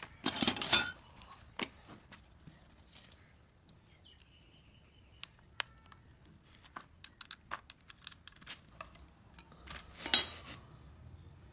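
Metal hand tools and motorcycle engine parts clinking and tapping in irregular bursts, loudest at the start and again about ten seconds in.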